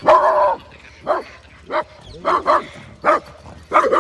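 A dog barking repeatedly in a run of short, separate barks, roughly one or two a second, the first one longer. It is a reactive outburst at another dog, a Doberman.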